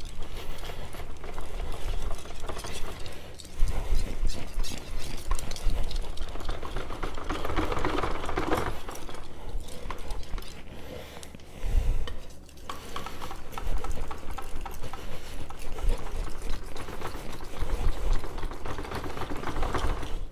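Steel knife blade being stroked back and forth on a wet whetstone during freehand sharpening: a continuous run of rasping, scraping strokes, with a brief let-up about twelve seconds in.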